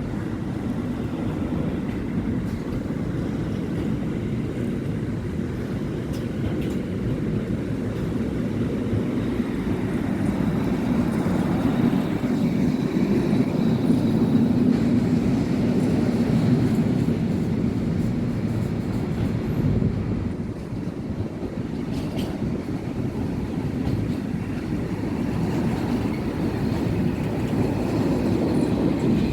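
A train rolling past with a continuous low rumble, growing louder toward the middle and easing briefly about two-thirds of the way through.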